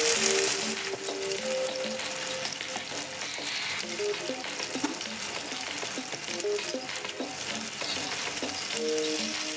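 Chicken pieces sizzling in hot oil in a nonstick wok, stirred with a wooden spatula at first. Soft background music notes run under the frying.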